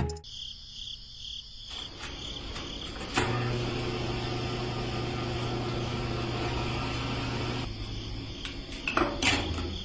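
A small electric motor runs at a steady pitch, starting about three seconds in and stopping just before eight seconds. A high pulsing chirp is heard at the start.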